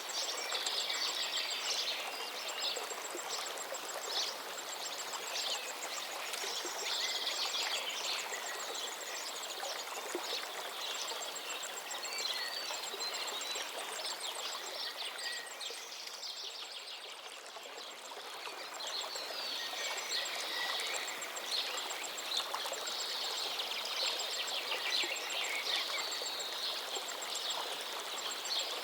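River water running steadily, with several birds calling and singing over it; the bird calls thin out briefly about two-thirds of the way through.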